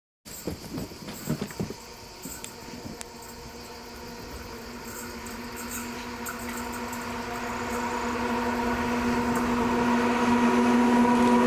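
A train approaching, its locomotive's steady hum of several fixed tones growing gradually louder. A few sharp knocks come in the first few seconds.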